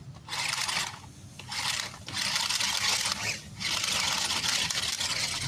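RC monster truck driven in four throttle bursts, a hissing scrape that starts and stops.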